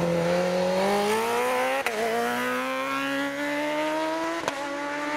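Superbike racing motorcycle engine accelerating hard, its pitch climbing steadily, with two quick upshifts about two seconds and four and a half seconds in.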